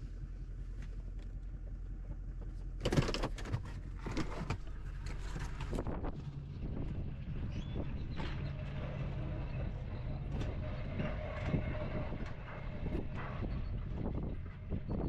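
An engine running steadily, with a cluster of loud knocks about three seconds in and a steady whine joining in about halfway through.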